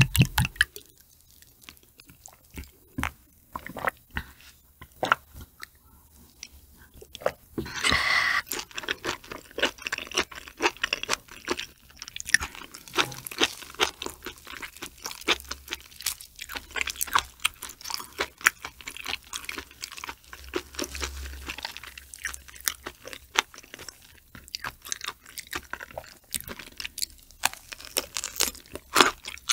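Close-miked eating sounds: gloved hands pulling apart raw shrimp and wet chewing with many small crunches and clicks, from raw shrimp eaten with flying fish roe. The last glugs of a drink poured from a glass bottle end about half a second in.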